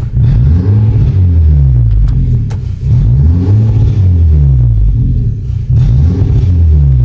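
Hyundai i30 engine revved three times, each rev climbing and then falling back in pitch, heard from inside the closed cabin; its exhaust is fitted with an aftermarket exhaust cutout.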